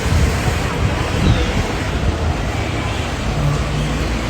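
Steady low rumble of airport background noise, with a low hum coming in about three seconds in.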